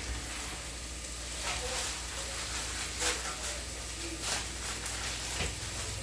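Food frying in a pan on the stove: a steady sizzle with scattered small crackles and pops.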